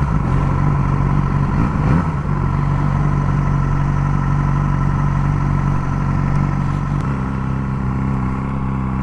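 Motorcycle engine running while riding in traffic, holding a steady engine speed, with the engine note shifting near the start and stepping up in pitch about seven seconds in.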